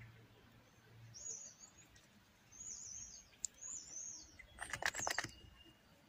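A small bird calling outdoors: three short, wavering high-pitched chirping phrases about a second apart. About five seconds in comes a quick cluster of sharp clicks or rustles.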